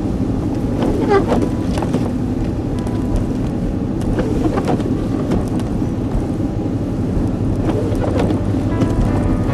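Inside a moving truck's cabin on a snowy road: steady low rumble of engine and tyres, with a few brief, faint swishes scattered through it.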